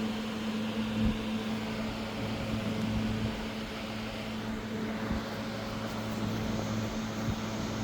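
Steady low mechanical hum with an even hiss, like a fan or small motor running, with a few faint knocks.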